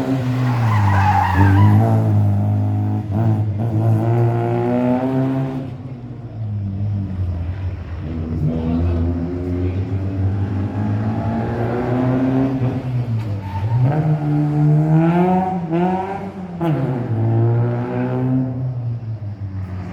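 Rally car engine revving hard through slides, its pitch falling and climbing again several times, with tyres skidding on the tarmac.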